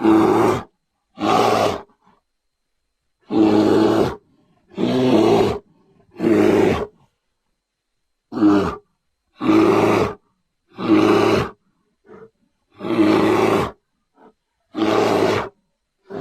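A series of about ten short bear-like creature roars, each lasting under a second and cut off cleanly by silence, with two brief faint grunts between the later ones: roar sound effects for a giant prehistoric bear.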